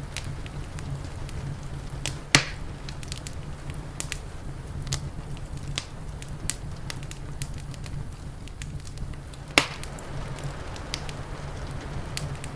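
Wood fire crackling, with many small snaps and two loud pops, about two seconds in and near the ten-second mark, over a steady low rumble.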